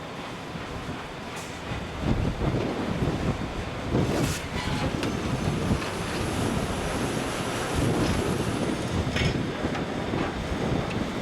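Everdigm ECD45E tracked top hammer drill rig working: a continuous rumbling mechanical clatter with irregular louder surges and occasional knocks, and a thin high whine through the middle.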